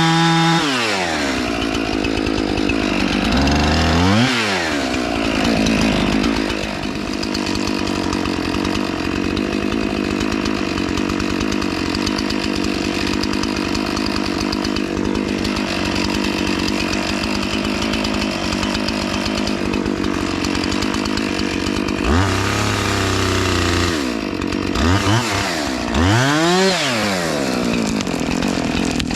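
Two-stroke chainsaw felling a small pine: it runs steadily at high revs for most of the time, and its pitch drops and climbs back sharply several times, once near the start, once about four seconds in, and three times close together near the end.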